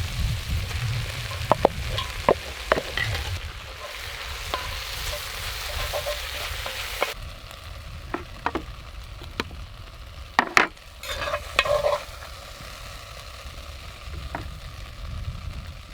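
Pork belly stir fry with vegetables and rice sizzling in a Dutch oven, with a utensil clicking and scraping against the pot as it is stirred. The sizzle drops sharply about seven seconds in, and the stirring clicks go on.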